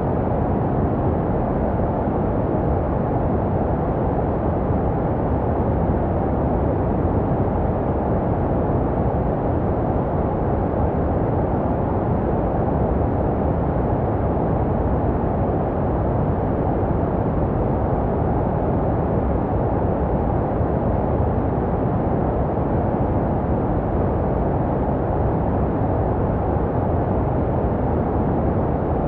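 Steady low-pitched white noise, a constant even rumble-hiss with most of its weight below about 1 kHz and little treble, unchanging throughout, made as a womb-like sleep sound for babies.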